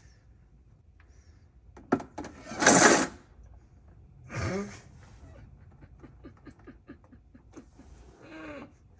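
Work under a truck at the oil pan drain bolt: a sharp click and a short loud rush of noise, then a ratchet wrench clicking steadily, about four clicks a second, with a couple of short grunts from the person working it.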